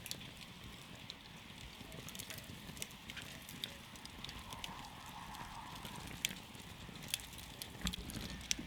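Wood campfire burning, with irregular sharp crackles and snaps over a low steady hiss of the flames.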